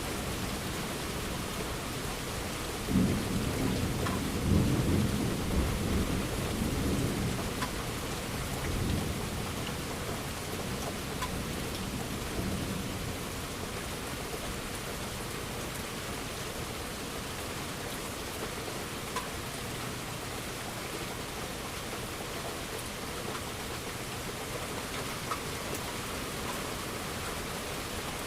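Steady heavy rain falling, with a roll of thunder that breaks suddenly about three seconds in and rumbles away over about ten seconds.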